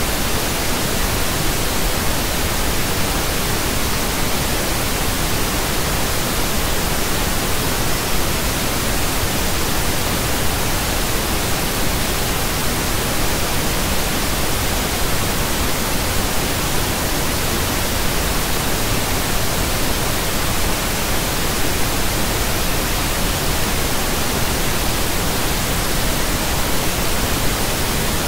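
Pink noise: a steady, even hiss across all pitches, unchanging throughout.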